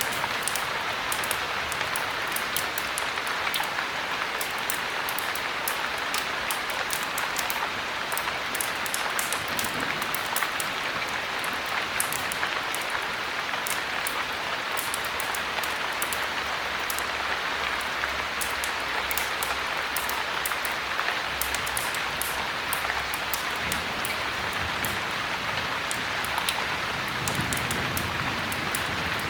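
Steady heavy rain, an even hiss with many small sharp ticks of drops scattered through it.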